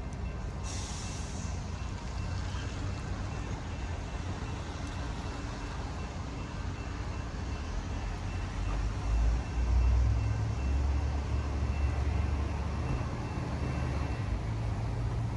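Large diesel engine running, with a short sharp hiss of released air about a second in. Its low rumble swells and grows louder about two-thirds of the way through, as when a heavy vehicle pulls away or passes close.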